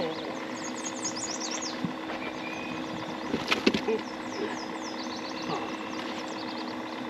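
Small birds chirping: many short, rapid falling calls repeating throughout, over a steady low hum. A cluster of sharp knocks comes about three and a half seconds in.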